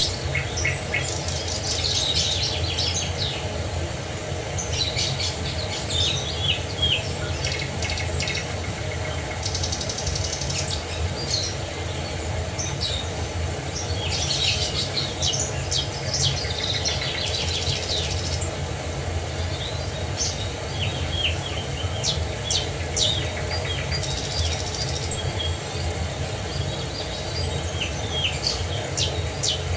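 Several songbirds chirping and trilling in quick, overlapping phrases, over a steady low rush of water from a waterfall.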